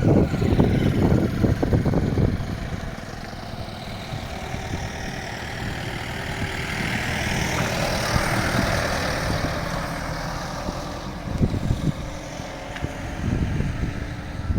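A vehicle driving along a road, with engine and road noise and wind buffeting the microphone. The buffeting is heavy for the first two seconds and returns near the end; in between it eases, and a hiss swells and fades.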